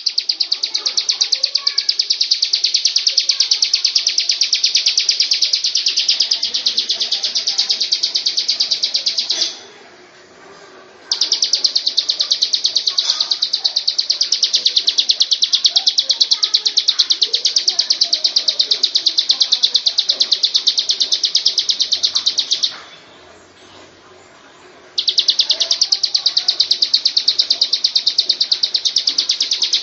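Bar-winged prinia singing: a long, very rapid, high-pitched trill of evenly repeated notes. It breaks off twice for a second or two and then resumes.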